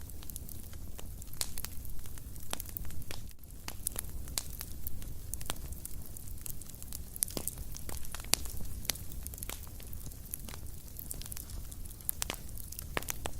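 Wood fire burning in a fireplace, with irregular sharp crackles and pops over a low steady rumble of flames. The loudest pops come about seven and eight seconds in.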